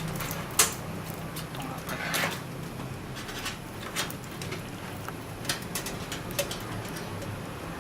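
Scattered light clicks and taps of computer parts and cable connectors being handled and fitted in a desktop computer case, over a low steady hum.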